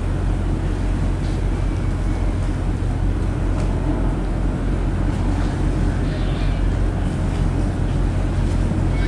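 Steady low drone of the ferry Motor Vessel Nantucket's engines, heard on board, with an even rushing noise over it.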